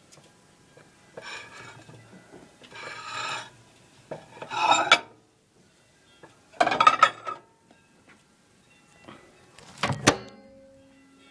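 Household handling noises: several short scraping, rustling bursts and clatter of kitchenware, then a sharp knock with a brief ring about ten seconds in.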